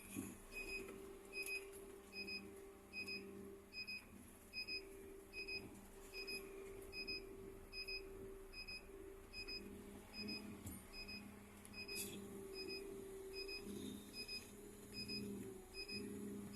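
Scania bus's electronic warning beeper sounding short, evenly spaced high beeps, a little under two a second, over a steady low hum.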